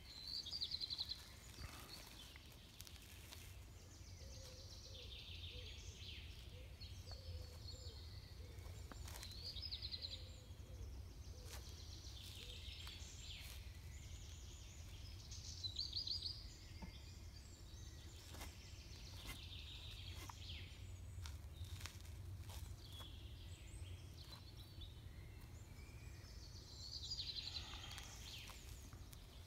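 Outdoor ambience: birds chirping in short bursts every few seconds over a steady low background rumble, with a few faint clicks.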